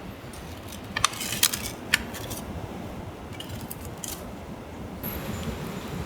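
Small metal objects clinking, with three sharp clinks about one to two seconds in and a few fainter ticks after, over steady outdoor background noise.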